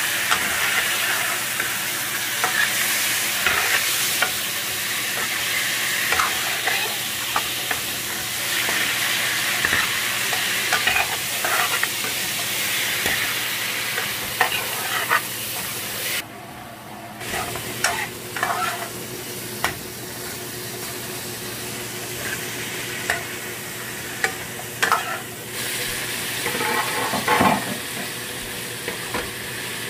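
Pork and sliced red onion sizzling in a metal wok, stirred with a metal ladle that scrapes and clinks against the pan again and again. The sizzle drops out for about a second midway.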